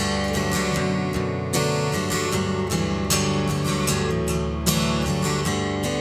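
Acoustic guitar strumming chords in a steady rhythm during an instrumental passage of a song.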